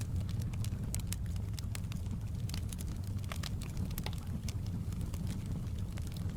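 Wood fire crackling with irregular sharp pops and snaps, over a steady low rush of flowing river water.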